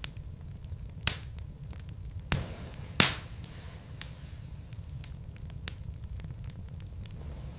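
Wood logs burning in a fireplace, crackling with irregular sharp pops over a low steady rumble; the loudest pop comes about three seconds in.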